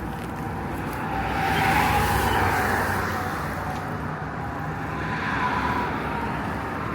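Road traffic: car tyre and engine noise, swelling about two seconds in.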